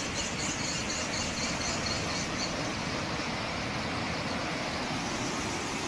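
The Bono tidal bore surging up the river: a steady, even rushing of breaking water.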